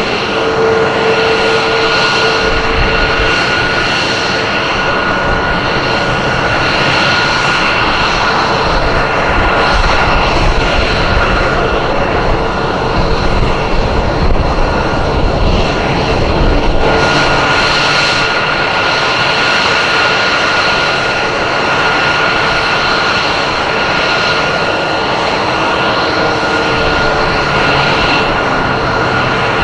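F-22 Raptor's jet engines in flight: a continuous high whine over a dense noise. A heavy low rumble builds through the middle and falls away abruptly about 17 seconds in, while the whine carries on.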